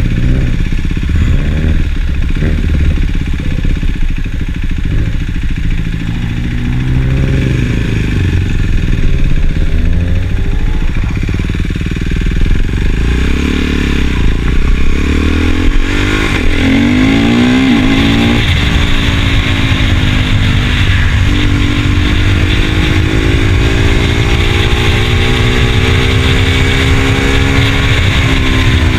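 KTM Duke 390 single-cylinder engine with an aftermarket slip-on exhaust, running as the bike is ridden. About halfway in it revs up steadily, drops sharply back, then holds a fairly steady pitch.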